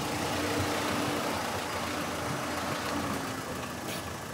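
Car engine running at low speed as the car rolls slowly through a parking lot, growing gradually quieter.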